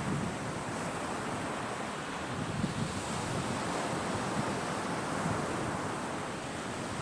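Sea waves washing onto the shore in a steady, unbroken surf, with wind rumbling on the microphone.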